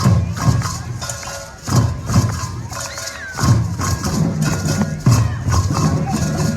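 Percussion playing a steady rhythm: a deep drum hit about every second and a half, with fast shaken and struck hand percussion between the hits.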